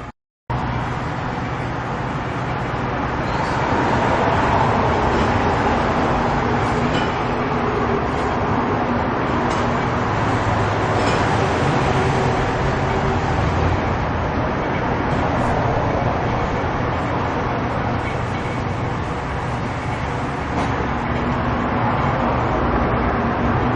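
Vehicle engine running steadily under an even rushing noise, after a brief drop-out right at the start.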